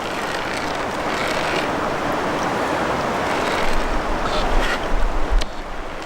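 Steady rushing of stream water, with a few light knocks and wind buffeting the microphone about four to five seconds in.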